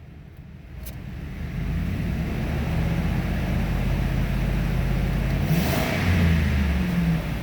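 A 2004 Ford F-150's 4.6-litre V8 engine is running. It grows louder over the first second and a half, then holds steady, with a brief rev about six seconds in.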